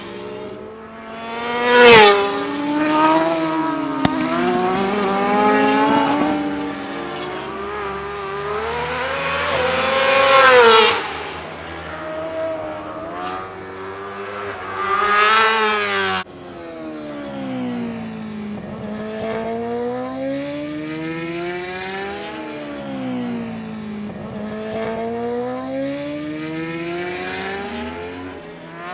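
World Superbike racing motorcycles running hard on track, engines revving with pitch rising and falling repeatedly. Bikes pass loudly several times, the loudest about two seconds in. The sound breaks off abruptly about sixteen seconds in, then the engines continue.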